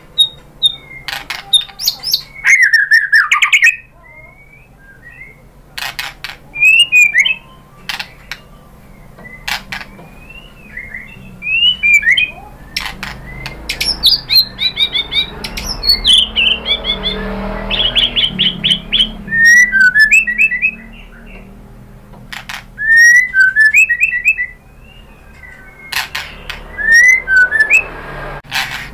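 White-rumped shama (murai batu) singing energetically in bursts of varied whistled phrases with quick up-and-down glides, broken by sharp clicks.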